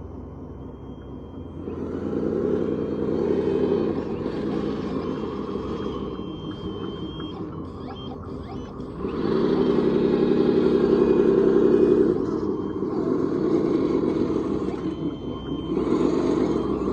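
Radio-controlled scale construction machine's motors and hydraulic pump whining in repeated bursts as it works. The whine rises and falls in pitch, and the longest, loudest burst comes past the middle.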